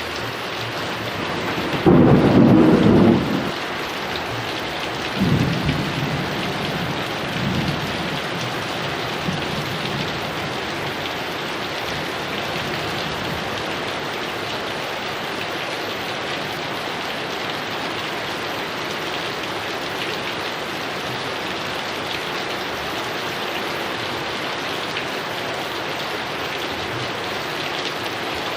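Heavy rain falling steadily, with a loud thunderclap about two seconds in, followed by a few fainter rolls of thunder over the next several seconds.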